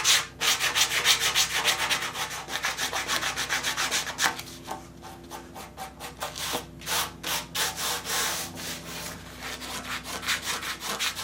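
Hand sanding body work on a steel tractor fender with sandpaper, in quick back-and-forth scraping strokes, lighter and sparser for a few seconds in the middle.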